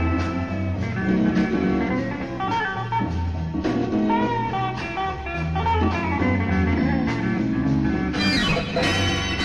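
Sixties beat band playing an instrumental blues in F, with guitar lines over bass and drums, recorded on a reel-to-reel tape recorder in a small rehearsal room.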